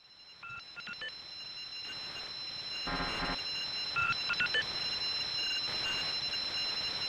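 Ringing electronic tones like a telephone ring: steady high thin tones with short ringing chirps, fading in gradually.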